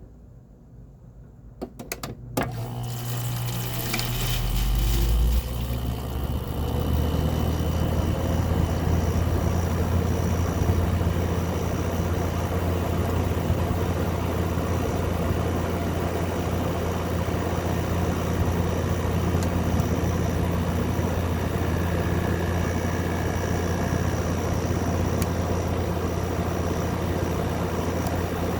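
2024 Midea 5,000 BTU window air conditioner starting up: a few clicks about two seconds in, then its running hum comes up over a few seconds and settles into a steady low drone.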